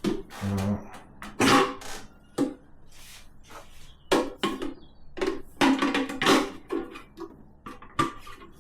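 Hard plastic knocks, clacks and rattles as a water filter cartridge is worked into the plastic water tank of a Sage Bambino Plus coffee machine, a dozen or so sharp knocks in irregular bursts.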